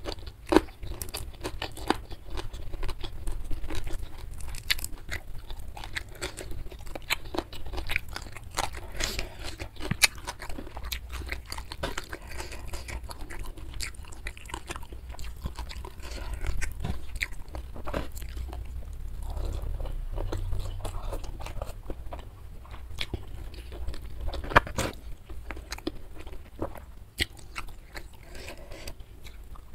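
Close-miked chewing and crunching of food eaten by hand, a steady run of sharp crackling bites and wet mouth sounds. Two louder crunches stand out, one about a second in and one about three quarters of the way through.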